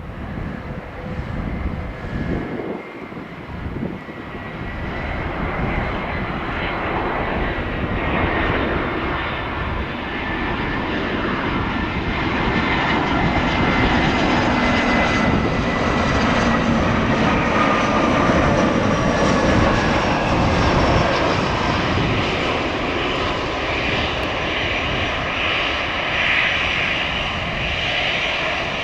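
Jet airliner engines passing close, the roar building over the first several seconds and then holding loud, with a high fan whine that slowly falls in pitch.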